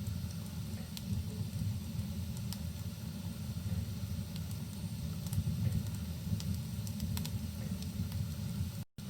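Fireplace ambience: a steady low rumble with sparse, sharp crackles from the burning wood, under a soft hiss of rain. The sound cuts out completely for a split second near the end.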